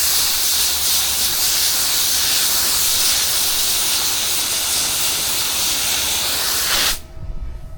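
Steady hiss of a pressure washer's water spray hitting the surface, cutting off suddenly about seven seconds in as the spray stops.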